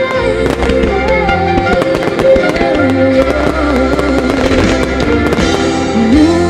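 Instrumental passage of a song with melody and bass, with many fireworks bursts banging and crackling over it.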